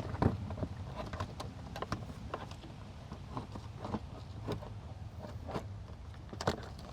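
Irregular plastic clicks and knocks as a washer reservoir and its clips are handled and pushed into place, with one sharper click near the end, over a steady low rumble.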